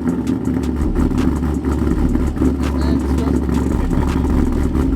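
A car engine idling steadily at a constant pitch.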